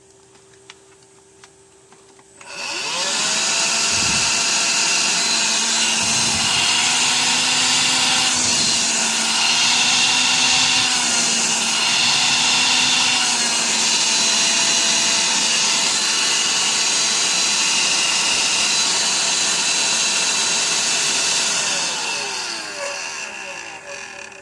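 Electrolux ZB3103 10.8 V cordless stick vacuum running on its newly refilled lithium battery pack. Its motor spins up with a rising whine about two seconds in and runs steadily, its pitch wavering briefly in the middle. Near the end it winds down with a falling whine.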